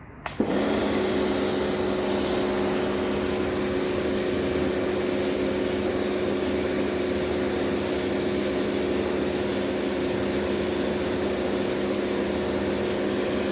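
Pressure washer switching on about half a second in and running steadily: a motor hum under a loud hiss of spraying water.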